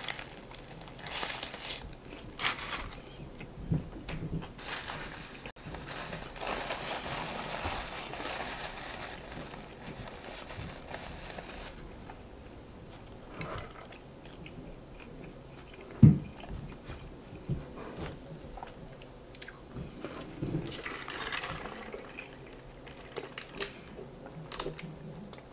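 Close-up eating sounds: biting into a crispy fried chicken sandwich and chewing it, with crunching and rustling of its paper wrapper. One sharper thump about two-thirds of the way through; near the end, a drink is sipped through a straw.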